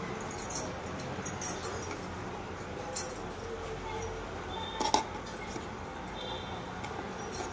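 A utensil clinking against a dish several times in sharp, separate taps, the loudest about three and five seconds in, over a steady background hiss.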